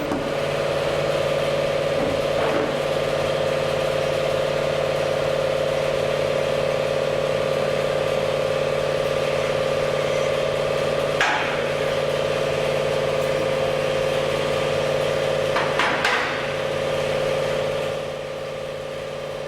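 A steady mechanical hum with a few sharp knocks of metal on metal, from staybolt caps being tightened on a steam locomotive boiler with a long socket wrench. The hum drops a little near the end.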